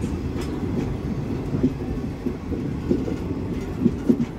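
Train running along the track: a steady low rumble with a few irregular clicks of the wheels over rail joints.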